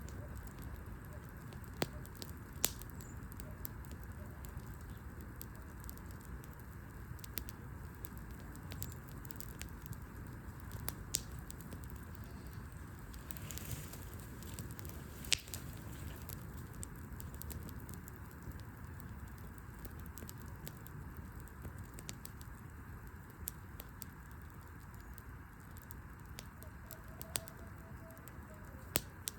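Wood fire burning in an open fire pit, crackling with irregular sharp pops and snaps over a steady low rumble, with a brief hiss about halfway through.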